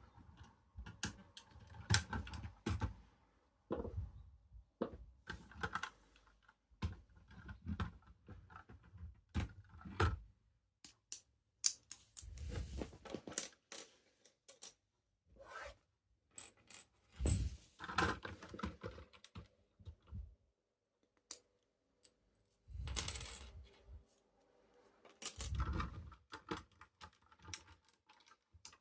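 Plastic Lego pieces clicking and clattering as a brick-built model is handled, with irregular small knocks and a few heavier thumps.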